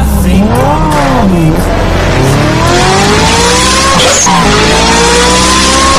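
Car engine revving up and down twice, then accelerating in two long rising pulls with a gear change about four seconds in.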